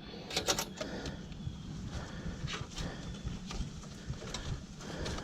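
Scattered sharp clicks and light knocks from handling cables and parts, a small cluster about half a second in and single ones later, over a steady low background rumble.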